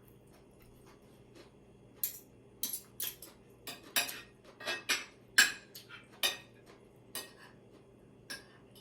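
Cutlery clinking against a plate during a meal: irregular sharp clicks starting about two seconds in, the loudest near the middle.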